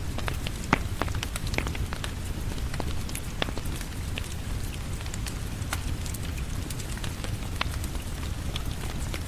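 Steady rain with a low rumble, mixed with a crackling wood fire whose sharp pops and ticks come irregularly, several to the second.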